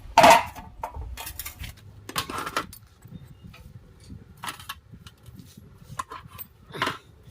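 Small metal objects clinking and clattering as they are handled: a handful of separate knocks with short ringing, the loudest right at the start.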